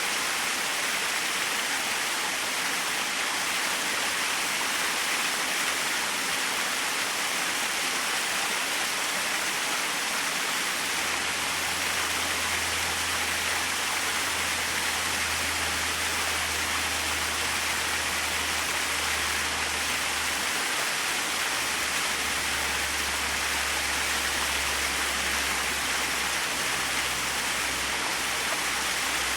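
Small waterfall: a steady, even rush of falling water, with a low rumble joining in about a third of the way through.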